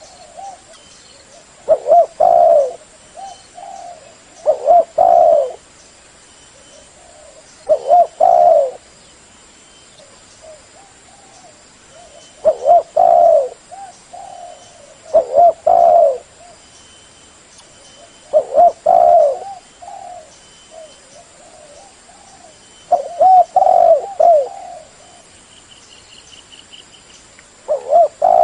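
Spotted dove cooing loudly in repeated short phrases about every three seconds, each a quick run of low, rising-and-falling coos.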